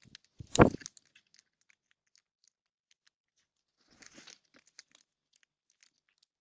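Two short rustling bursts, the first loud about half a second in and a softer one about four seconds in, with scattered light ticks between, from birds moving about at a backyard bird bath.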